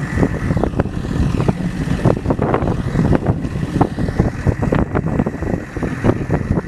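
Motorboat under way, with heavy wind buffeting the microphone, irregular knocks and slaps, and a faint steady high whine.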